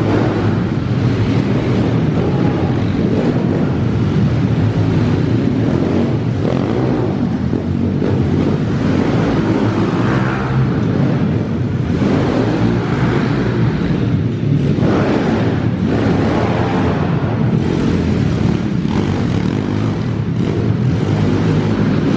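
Small four-stroke 110 cc pit bike engine running hard and revving up and down as the bike is ridden around the track.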